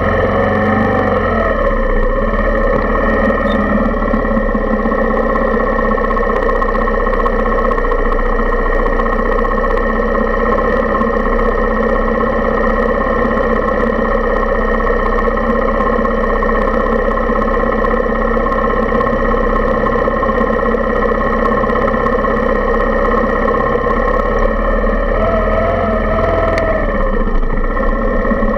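Suzuki Intruder 125's single-cylinder four-stroke engine idling steadily in slow traffic, briefly revved near the start and again a few seconds before the end.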